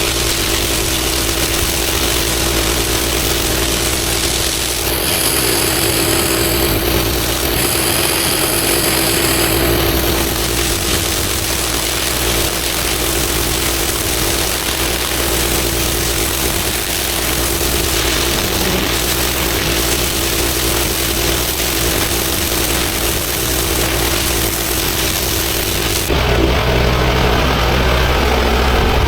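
Engine-driven pressure washer running steadily, with a continuous hiss of spray on the paving. A faint high whistle comes through for a few seconds early on, and about three seconds before the end the sound turns deeper with less hiss.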